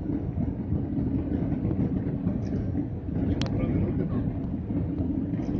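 Airbus A319 cabin noise: a steady low rumble of engines and airflow heard from inside the passenger cabin, with one sharp click about three and a half seconds in.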